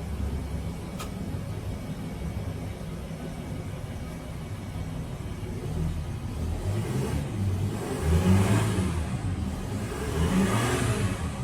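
Mercedes-Benz GL350 BlueTEC's 3.0-litre V6 turbodiesel idling steadily after a cold start, then revved up twice in the second half, the first rev the louder.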